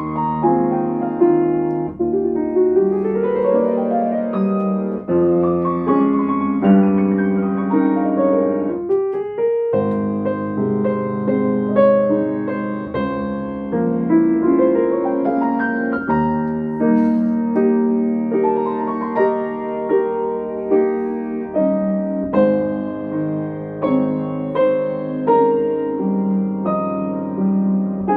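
Yamaha C5A grand piano being played, rebuilt for a Steinway-like tone: chords and flowing arpeggios, with a long rising run and a brief break about ten seconds in.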